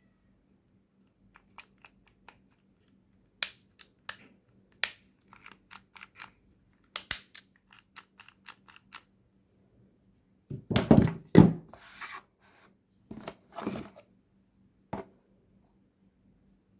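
Unpacking sounds: a run of light clicks and knocks, then a louder burst of rustling or tearing packaging about eleven seconds in, with a few more rustles and a final click.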